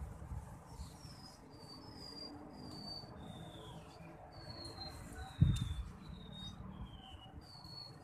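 A small bird calling: a series of short, high, thin whistled notes, each dipping slightly in pitch, about one or two a second. A sharp thump about five and a half seconds in is the loudest sound.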